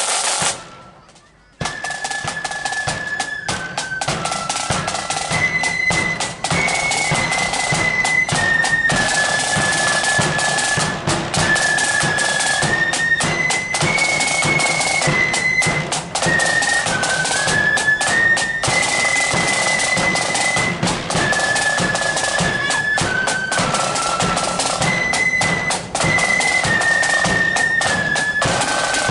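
Marching flute band playing a tune: massed flutes in unison on one high melody line over snare and bass drums. The sound drops out briefly about a second in, then the band carries on.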